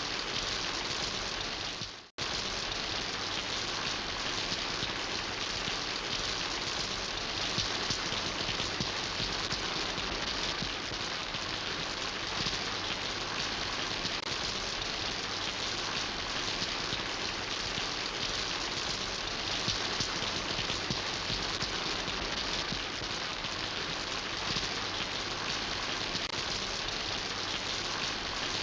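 Steady rain falling and pattering on surfaces, many small drops. About two seconds in it fades out briefly to near silence, then comes straight back at full level.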